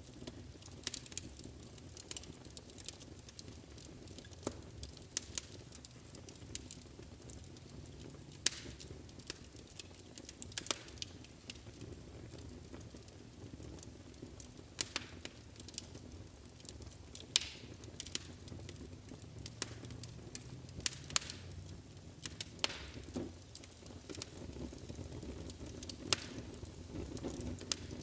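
Wood fire burning in a fireplace: a low, steady rumble of flames with sharp, irregular crackles and pops several times a second.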